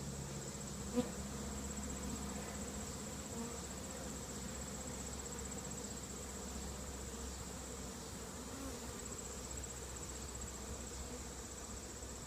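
Honey bees buzzing steadily in a robbing frenzy as robber bees try to force their way into a hive past its robbing screen. A short tap sounds about a second in.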